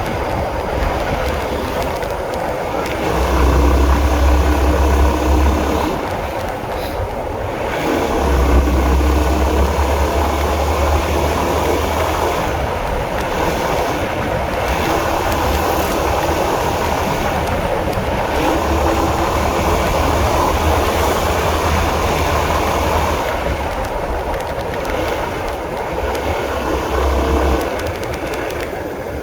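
Honda CB150R's single-cylinder engine running under a moving ride, with a heavy low rumble that comes and goes in stretches of a few seconds.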